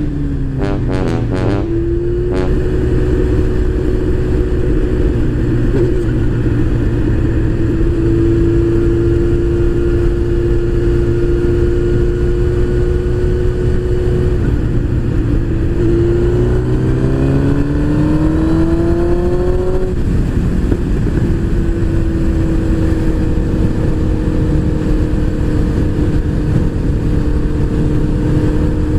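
Motorcycle engine running at road speed under heavy wind noise. From about fifteen seconds in its pitch rises as it accelerates, then drops suddenly near twenty seconds as it shifts up a gear, and it runs steady again.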